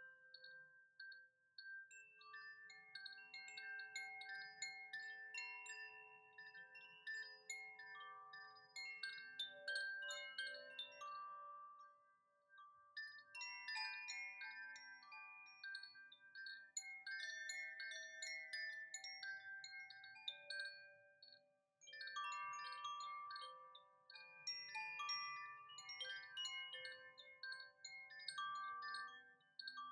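Chimes ringing in three swells of many overlapping, slowly fading notes, each swell gathering and then dying away.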